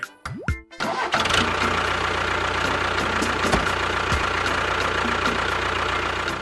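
A motor vehicle engine starting about a second in, then running steadily at idle until it stops just before the end.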